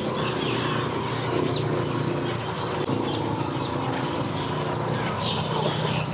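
An engine running steadily at idle, with many birds chirping over it.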